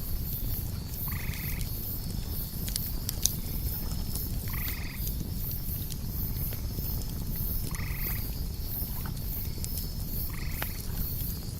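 Campfire crackling with a low rumble and scattered sharp pops, under a steady high pulsing chirp of crickets. A short croaking animal call sounds four times, about every three seconds.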